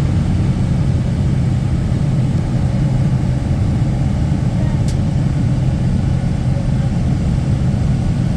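Tour bus engine running steadily as a constant low rumble, with a brief click about five seconds in.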